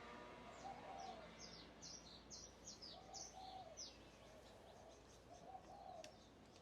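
Faint wild birdsong: a quick series of about ten high, falling chirps over the first few seconds, with a lower arched call from another bird repeating every couple of seconds.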